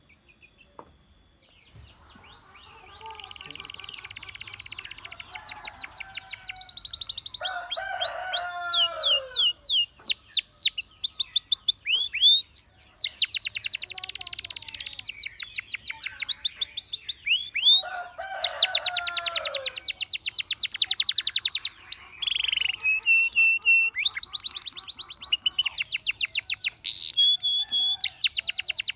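Domestic canary singing: long runs of fast repeated notes and trills mixed with rising and falling whistled glides, starting faintly about two seconds in and building to full song.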